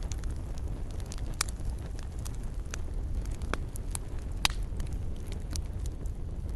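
Wood fire burning in a fireplace, with a steady low rumble and irregular sharp crackles and pops, about a dozen of them, the loudest about a second and a half in and four and a half seconds in.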